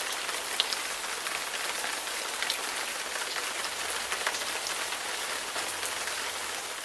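Steady rain falling, a dense even hiss with scattered sharper raindrop ticks.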